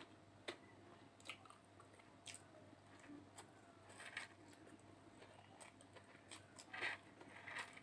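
Faint chewing and wet mouth sounds of a person eating egg noodles by hand, with soft scattered clicks and a couple of slightly louder mouth sounds near the end.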